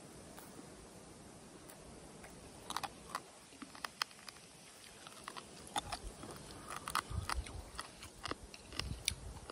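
A person biting and chewing grilled meat close to the microphone: soft mouth clicks and smacks, sparse at first and more frequent from about three seconds in.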